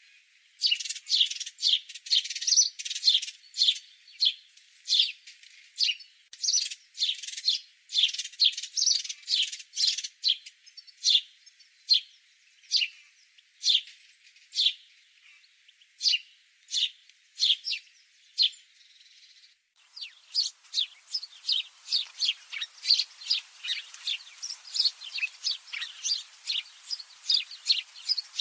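Small songbirds chirping: a steady run of short, high chirps, one to two a second. About twenty seconds in the recording cuts to a denser stretch of quicker chirps over a faint hiss.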